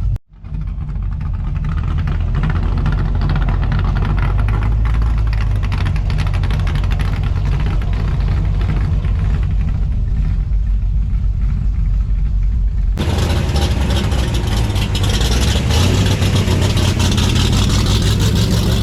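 Car engine running at low speed with a steady low rumble. About two-thirds of the way through, the sound changes abruptly to a brighter, hissier version of the same engine noise.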